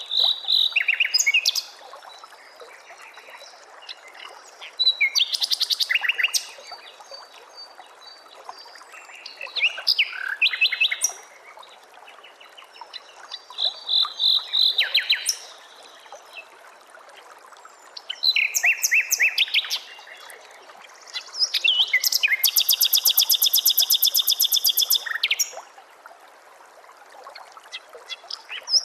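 Songbird song in loud, varied phrases of sharp whistles and chips, each lasting one to three seconds and recurring every few seconds. About two-thirds of the way through comes a longer, rapid trill of about three seconds. A steady faint hiss runs underneath.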